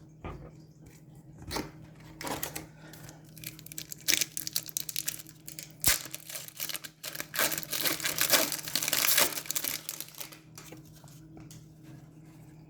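Trading card pack and cards being handled: crinkling and tearing of the wrapper and card stock in irregular bursts, busiest in the middle, with a sharp click partway through.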